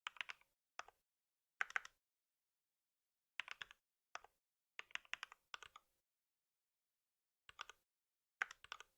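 Computer keyboard typing in short flurries of a few quick keystrokes, with pauses of about half a second to a second and a half between them.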